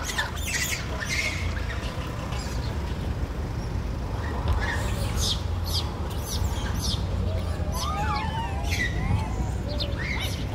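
Birds chirping in short, scattered high calls, with a stretch of warbling about three-quarters of the way through, over a steady low rumble of road traffic.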